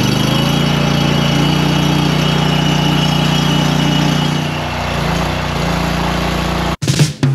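Log splitter's engine running steadily, its note dipping briefly past the middle, then cut off abruptly near the end by guitar-driven music.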